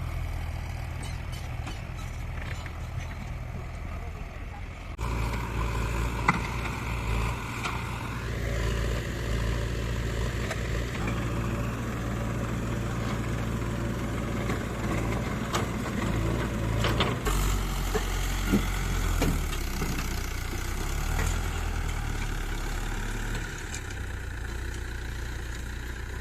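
Heavy diesel engine running steadily. It gets louder about five seconds in and shifts again partway through, with a few sharp knocks.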